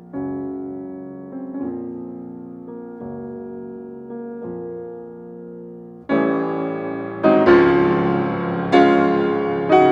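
Background piano music: slow, soft sustained chords that turn louder and brighter about six seconds in.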